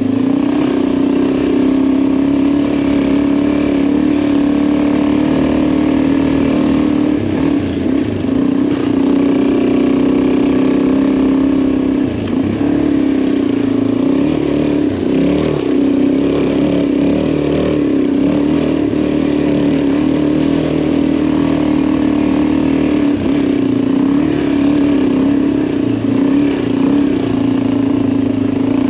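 Motorcycle engine running at fairly steady revs while riding a rocky dirt track, the engine note wavering a little as the throttle changes, over a steady rush of riding noise.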